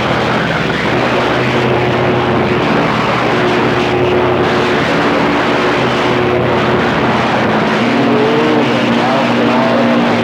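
CB radio receiver hissing with loud skip static, with steady humming tones from keyed-up carriers of other stations transmitting over each other. Wavering whistle-like tones come in near the end.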